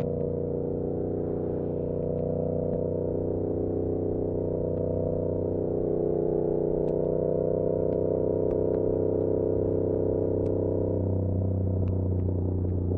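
Yamaha R7's parallel-twin engine running through an SC-Project CR-T exhaust at a steady cruise, heard from a recorder inside the rider's backpack, its note changing about eleven seconds in. Scattered light clicks throughout are the backpack's straps hitting the bag.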